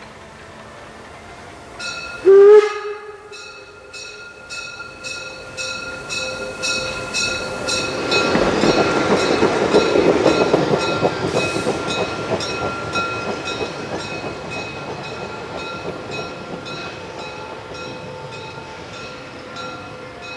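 Narrow-gauge steam locomotive giving one short whistle blast, then working past with regular exhaust beats about two a second. The beats grow louder toward the middle and fade away again.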